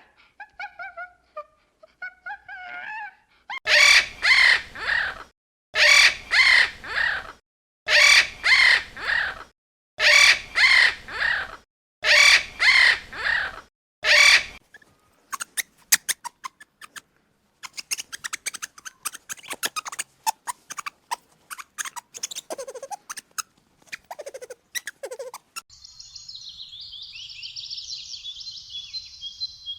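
A bird giving six loud, harsh calls of about three notes each, one every two seconds or so. Quieter clicking follows, and high twittering near the end.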